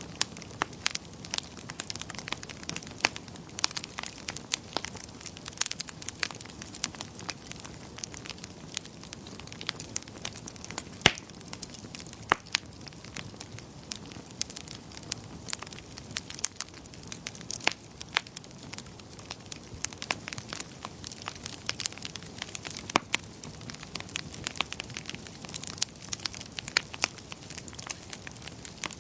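Wood fire crackling in a fireplace: irregular sharp pops and snaps over a steady low hiss, with one louder pop about eleven seconds in.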